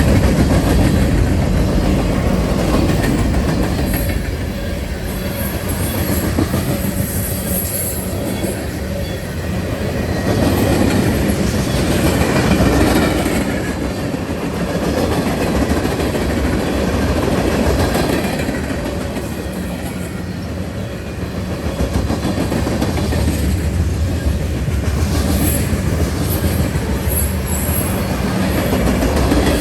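A train rolling past at close range: a continuous rumble of its cars that swells and dips every few seconds. Brief high wheel squeals come about a quarter of the way in and again near the end.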